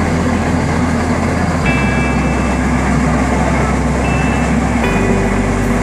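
Steady running noise of a moving passenger train, heard from a seat at the carriage window: a continuous rumble and rush of wheels and air.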